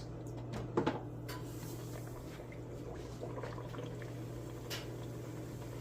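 Beignet dough frying in hot oil with a faint sizzle over a steady low hum, with a couple of short knocks about a second in.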